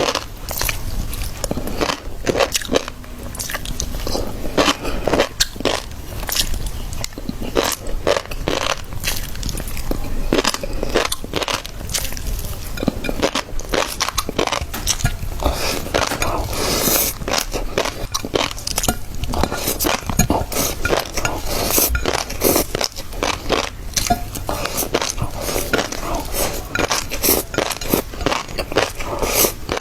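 Close-miked eating of shrimp with fish roe sauce: continual wet chewing and biting, with dense, irregular small crackles and clicks.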